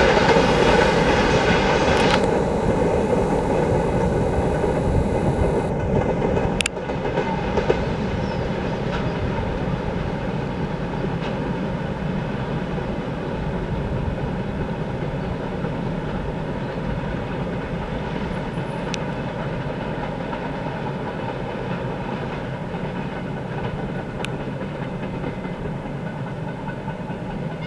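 Freight train wagons rolling along the tracks: a steady rolling rumble with a faint ringing tone from the wheels, dropping a little in loudness about seven seconds in.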